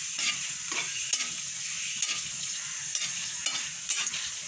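Whole red chillies frying in hot oil in a kadai: a steady sizzle with frequent crackles and pops, while a metal spatula stirs them and scrapes the pan.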